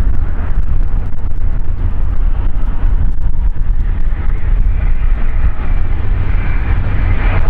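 Jet aircraft engines running, a loud steady roar with a faint high whine coming in over the second half.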